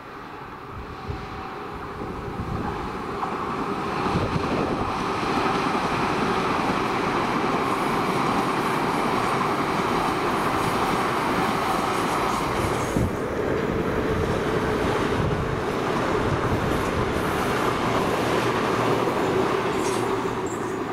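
A train passing on the line. Its noise builds over the first few seconds, then holds loud and steady with a faint steady tone under it, easing slightly near the end.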